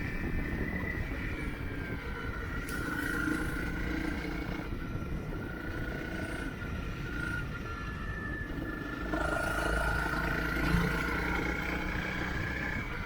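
Motorcycle engine running under way, its pitch shifting as the revs change, over low wind and road rumble.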